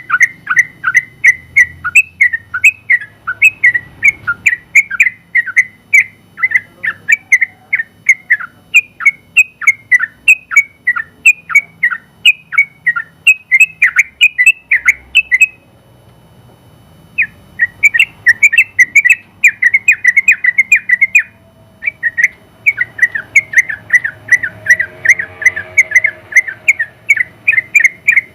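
Yellow-vented bulbul (trucukan) singing a long, fast run of loud chirping notes, several a second. It breaks off for about a second and a half midway, then resumes, with another brief pause later.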